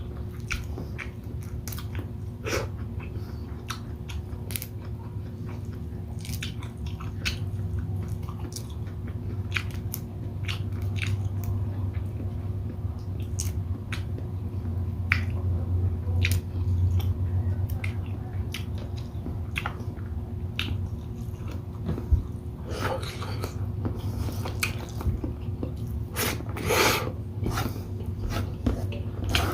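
Close-miked chewing and biting of someone eating shrimp in coconut milk with rice, with many small wet clicks of the mouth over a steady low hum.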